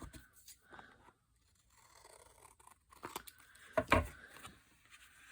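Scissors cutting paper in a few short snips, with the loudest snip about four seconds in.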